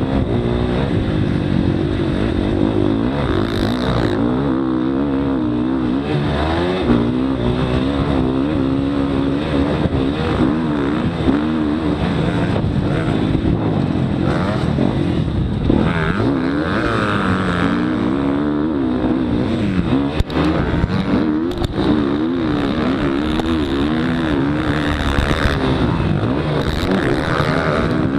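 Motocross dirt bike engine being ridden hard on a track, revving up and falling back again and again as the throttle opens and closes. There are a few sharp knocks about two-thirds of the way through.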